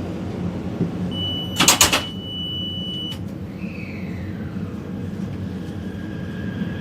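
Taipei Metro train with its steady low rumble throughout. About a second in, a high electronic beep holds for about two seconds, with a short loud whoosh in the middle of it. After that, an electric motor whine slides down in pitch and then holds steady.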